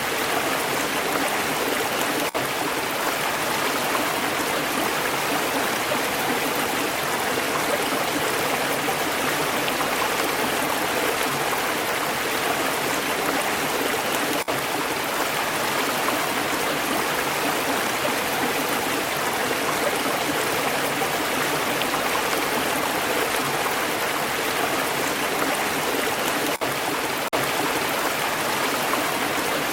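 Stream water flowing and gurgling over stones: a steady, even rush, with a few momentary dips in level.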